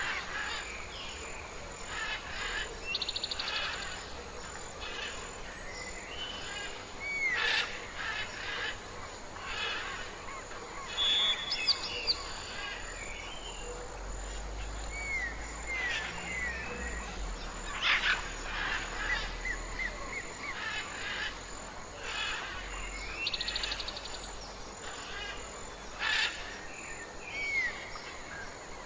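Several wild birds calling and singing: scattered chirps, short downslurred whistles and a couple of fast trills, over a steady outdoor hiss.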